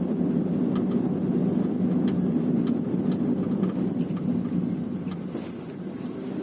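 Nissan Sunny FB15 on the move, with a steady low drone of road and engine noise. Irregular light knocks come from the rear of the car, an unexplained rear knock the owner cannot find the cause of.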